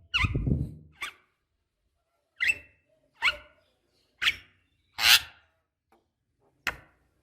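Javan myna (jalak kebo) giving a series of short, harsh calls with pauses between them, about seven in all. The loudest is a noisy screech about five seconds in.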